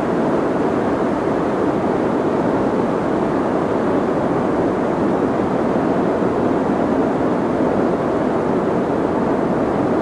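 Steady soft white noise: an even, muffled hiss weighted toward the low-middle, holding one level throughout.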